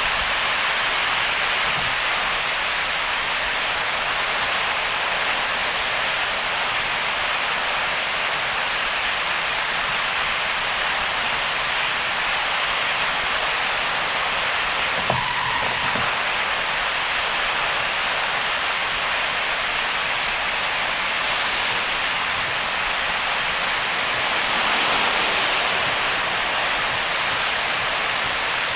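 Heavy rain and tyre spray on a wet expressway while driving, a steady hiss. A short knock comes about halfway through, and the hiss swells louder for a couple of seconds near the end.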